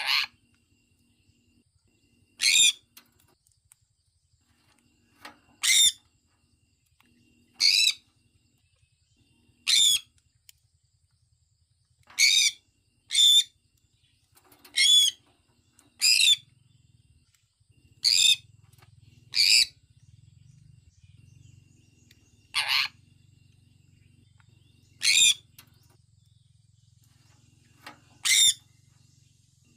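Sun conure giving short, high-pitched chirping calls one after another, about fourteen in all, a second or two apart. A faint low hum comes in about halfway through.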